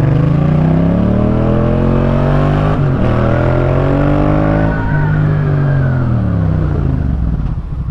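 Yamaha MT-07's parallel-twin engine through a Jeskap K4 full aftermarket exhaust, revving up under acceleration. There is a short break for an upshift about three seconds in, then it pulls up again. From about five seconds in the throttle is rolled off, and the engine note falls until it settles near idle at the end.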